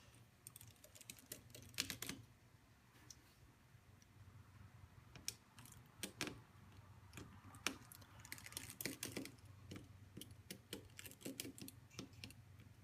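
Faint, irregular small clicks and taps of a PH000 precision Phillips screwdriver and metal tweezers working the tiny screws of a smartphone's internal frame, over a faint low hum.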